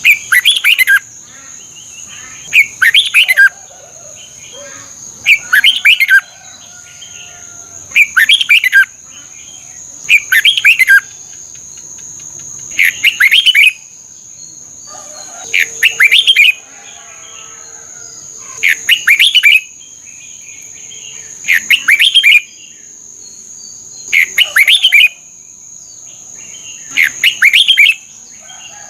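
Red-whiskered bulbul singing short, loud, rapid whistled phrases, one about every two and a half seconds. A steady high-pitched tone runs underneath.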